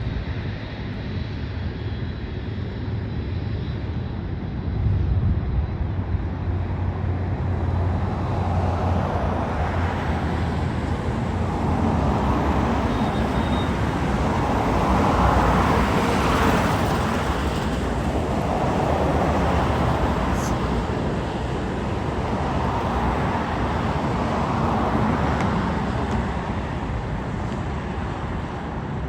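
Jet airliner passing, its rumble building to a peak about halfway through and then fading.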